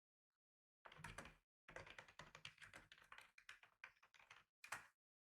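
Typing on a computer keyboard: quick runs of key clicks start about a second in, pause briefly, then go on steadily. A last short burst of keystrokes comes near the end.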